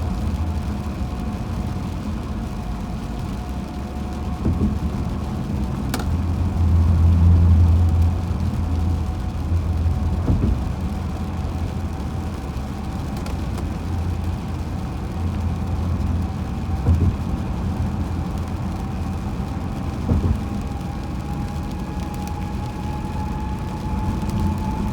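Car road noise while driving on a highway: a steady low rumble with a faint whine that rises slightly in pitch near the end, and a few faint clicks.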